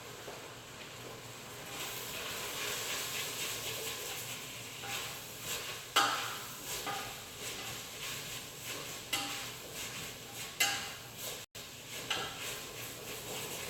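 Food sizzling in a hot pan, the hiss setting in about two seconds in, with a few sharp knocks of a utensil against the pan as it is stirred.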